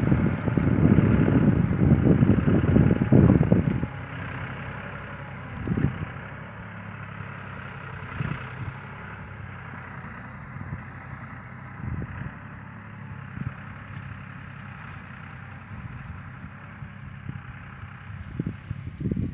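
John Deere 5075 tractor engine running steadily. A loud, irregular low rumble covers it for about the first four seconds, and short thumps come through now and then.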